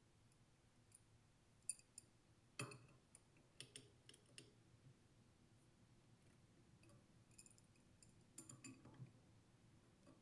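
Near silence with a few faint, scattered clicks and light taps, from small metal fittings and a wrench being handled.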